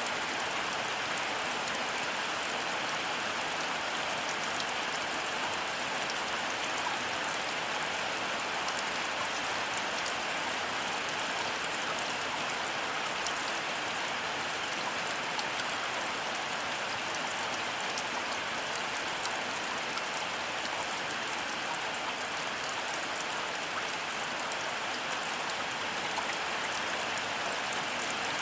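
Heavy rain falling steadily: an even wash of sound dotted with many fine drop taps.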